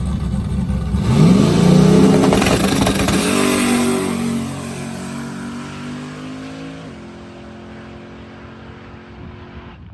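1978 Camaro drag car launching: a steady low engine rumble, then about a second in the engine note climbs sharply at full throttle and holds, fading over the next several seconds as the car pulls away down the strip, until only a faint distant engine note is left.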